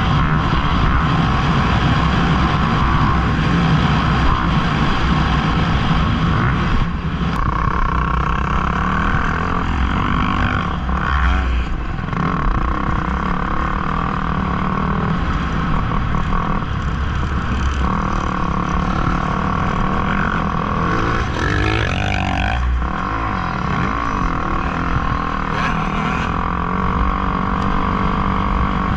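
Motocross dirt bike engines running hard and revving, the pitch climbing and dropping as the throttle opens and closes, with quick rising and falling sweeps about a third of the way in and again past the middle.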